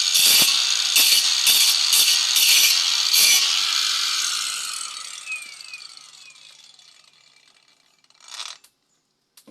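A power tool working wood in repeated strokes, with a harsh grating burst about twice a second. Then it is switched off and winds down, its sound fading and falling in pitch over several seconds. A short scrape comes near the end.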